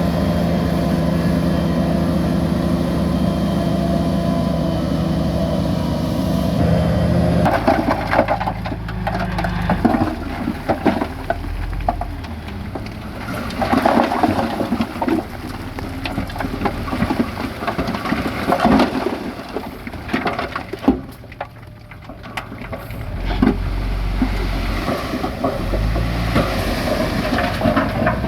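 Bulldozer diesel engine running steadily. About seven seconds in it gives way to irregular crunching and cracking, like earth and rock being broken and pushed, with a lower engine rumble underneath.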